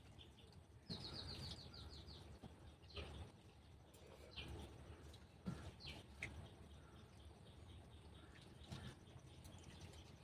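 Faint bird chirps over quiet background noise: a quick run of high chirps about a second in, then several single short falling chirps.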